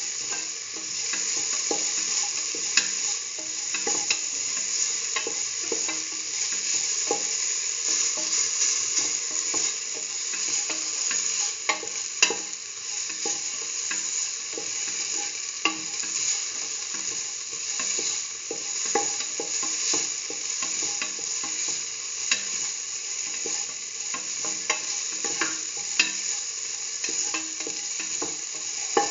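Onion, garlic and tomato pieces sizzling in hot oil in a pan while a spatula stirs and scrapes them, with frequent sharp clicks of the spatula against the pan.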